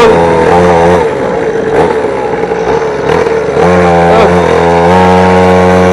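50cc two-stroke mini dirt bike engine running hard while being ridden: the revs ease off about a second in, then climb again a little past halfway and hold at a steady high pitch.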